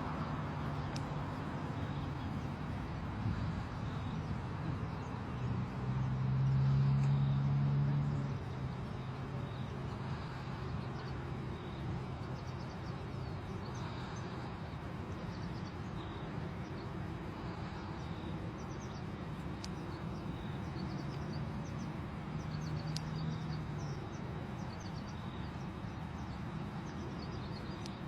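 Steady outdoor background noise with a low hum that swells for a couple of seconds about six seconds in and again about twenty-two seconds in, and faint high bird chirps in the second half.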